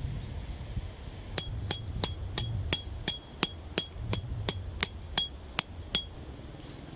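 A hammer striking metal about fourteen times at an even pace of roughly three blows a second, each blow with a short ringing ping. Low wind rumble on the microphone throughout.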